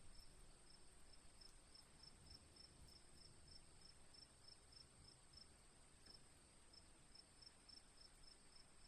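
Faint crickets chirping: a steady high-pitched trill with regular short chirps about two to three a second.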